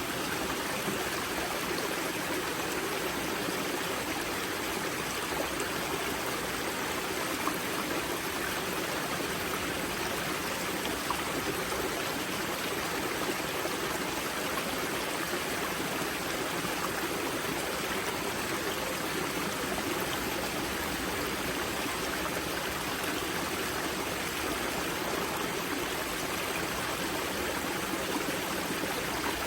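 Mountain river water flowing and splashing at its spring source, a steady rushing with no breaks or changes.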